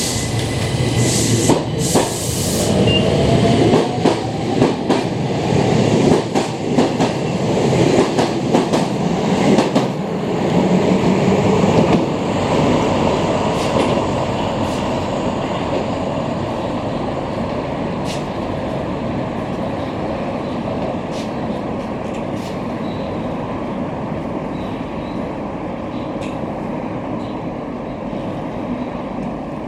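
Keihan Keishin Line electric train running by, its wheels clattering with many sharp clicks over rail joints for about the first twelve seconds. After that the sound settles into a steady rumble that slowly fades.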